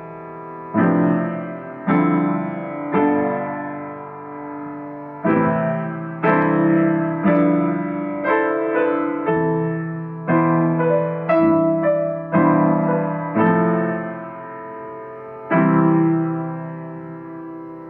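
Solo piano improvisation: slow chords struck one after another, each ringing and fading before the next, with a held chord ringing out near the end.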